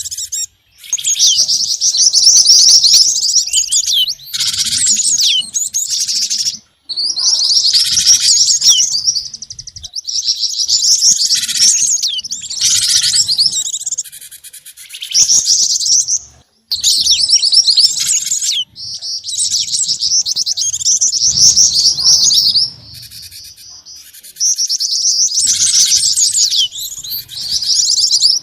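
Bird-lure recording mixing the calls of cinereous tit (gelatik batu), black-winged flycatcher-shrike (jingjing batu) and mantenan: rapid, high chirping and trilling in bursts of a few seconds, broken by short pauses.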